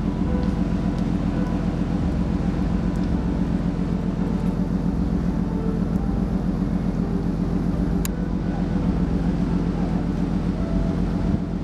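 Steady low drone of a ship's engines running.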